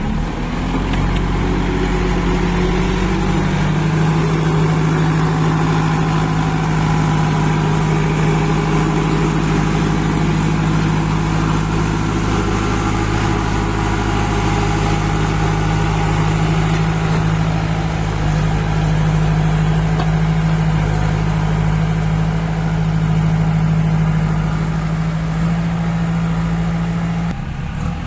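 Kirloskar diesel engine of a JCB 2DX backhoe loader running steadily, its pitch stepping up a little in the first few seconds and dropping just before the end.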